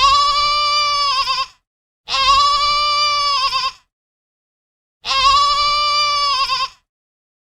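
Goat bleating three times, in long, steady, evenly spaced calls that waver at the end.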